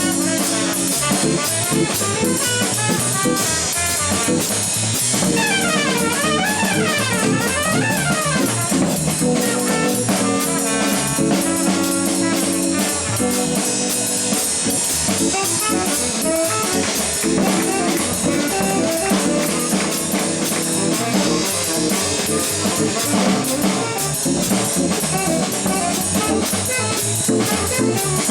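Live jazz trio of tenor saxophone, organ and drums playing. Organ chords are held under steady drumming, with quick up-and-down runs about five to eight seconds in.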